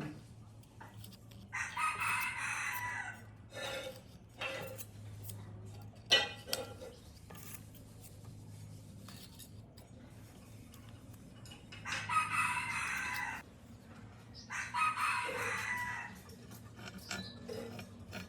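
Rooster crowing three times, each call long and drawn out. A sharp knock comes about six seconds in, and a steady low hum runs underneath.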